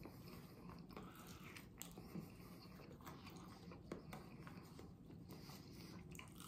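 Faint chewing and mouth sounds of a person eating crispy fried chicken, with scattered soft clicks as the meat is pulled from the bone and bitten.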